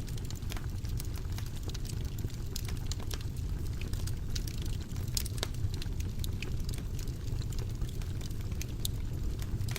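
Wood fire crackling in a fireplace: a steady low rumble of flames under frequent small sharp crackles, with a few louder pops about halfway through.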